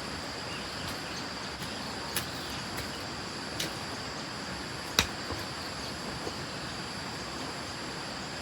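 A few sharp knocks over a steady hiss, about two, three and a half and five seconds in, the last the loudest.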